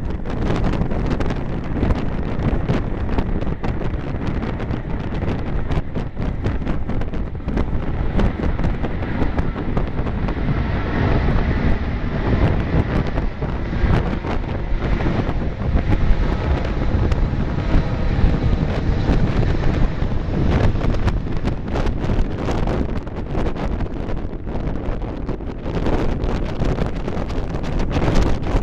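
Wind buffeting the microphone over the rumble of an Airbus A330-200's jet engines on takeoff. A faint whine rises through the noise about ten seconds in and fades a few seconds later.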